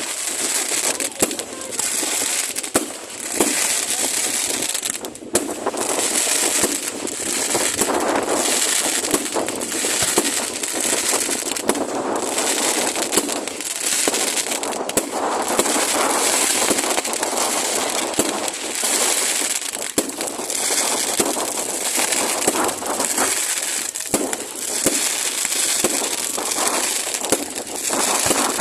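Fireworks going off without a break: a dense run of crackles with many sharp bangs mixed in.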